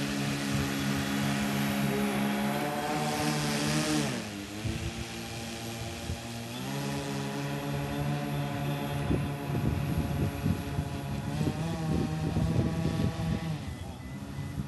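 Twin brushless outrunner electric motors spinning propellers on an RC airplane during taxiing, a steady pitched drone. The throttle comes down about four seconds in, goes back up near seven seconds, and comes down again near the end.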